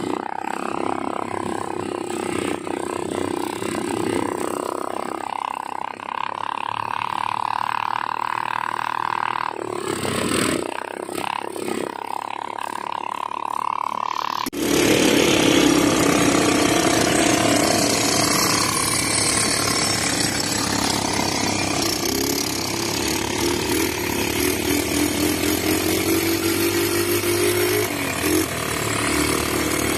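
ATV engine running. About halfway through, the sound cuts abruptly to a louder, rougher engine sound.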